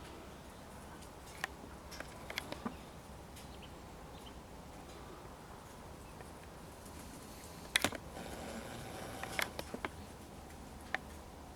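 Scattered sharp clicks and taps over a steady low hum. The loudest is a double click a little past the middle, and small clusters of lighter taps come early and toward the end.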